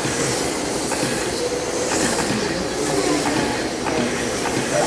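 A pack of brushless electric RC trucks racing: a steady mix of motor and gear whine and tyre noise, with faint whines rising and falling as the trucks speed up and slow down.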